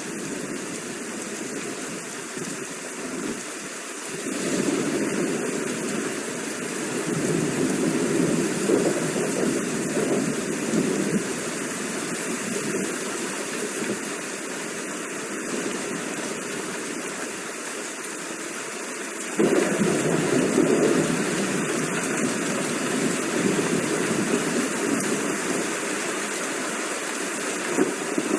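Steady rain with thunder rumbling over it: a swell of rumble about four seconds in, and a louder one that starts suddenly about two-thirds of the way through, then eases.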